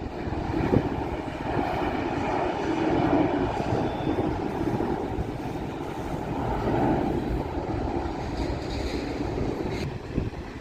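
Jet airliner engine noise: a steady rumble that swells and eases a little without stopping.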